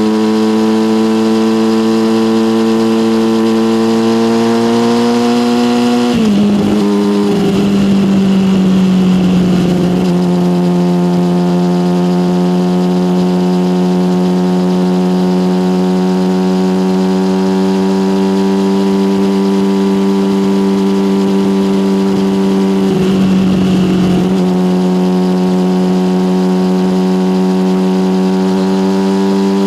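Yamaha motorcycle engine through an SC Project aftermarket exhaust, running at steady, slowly climbing revs on the road. About six seconds in the pitch drops as a gear changes, and there is another short dip near the end.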